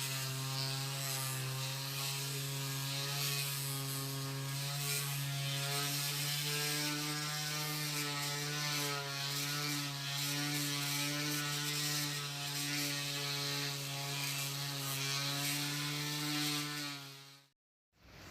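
Electric grinder motor running steadily with a strong hum, and a rough scraping hiss over it as steel is worked against it.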